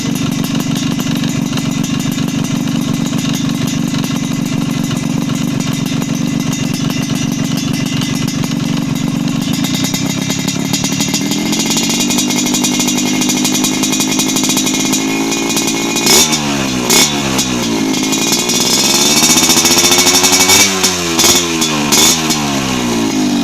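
Yamaha RX-King two-stroke single-cylinder engine running through an Armoni Racing aftermarket exhaust. It idles steadily, the revs climb about eleven seconds in, and then several quick throttle blips send the pitch sweeping up and back down near the end.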